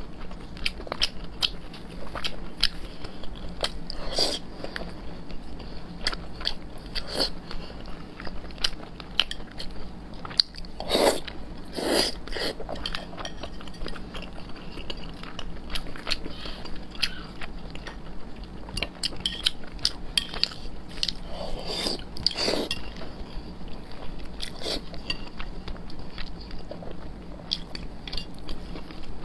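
Close-up eating sounds of someone chewing and biting soft braised pork belly: a steady run of small wet mouth clicks, with a few louder ones.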